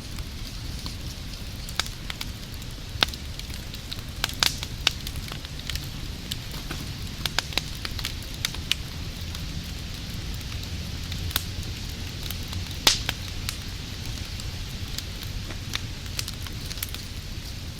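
Wood fire burning with a steady low roar and hiss, broken by irregular sharp crackles and pops; the loudest pops come about four seconds in and again about thirteen seconds in.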